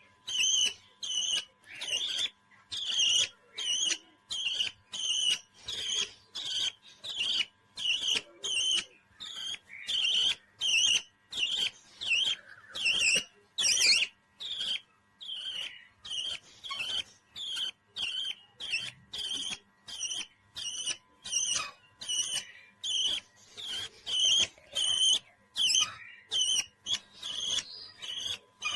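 A parrot calling over and over in short, sharp, high chirps, about two a second in a very even rhythm.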